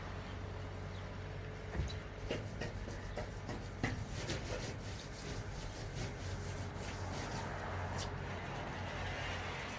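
A brush scrubbing a metal garage door: a steady rubbing rasp with scattered light knocks and taps.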